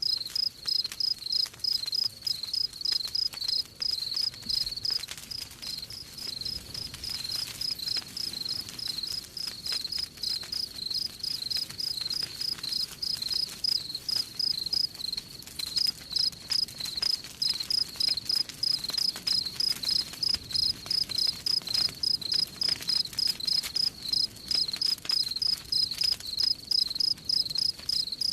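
Crickets chirping in a steady, even rhythm of high-pitched pulses, with faint scattered crackles of a campfire underneath.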